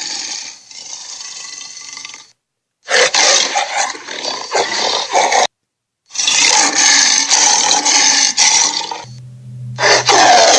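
Dinosaur roar sound effects played one after another: harsh, rasping roars of a few seconds each, cut apart by two brief gaps of total silence. Near the end a roar dies down over a low hum before another loud roar begins.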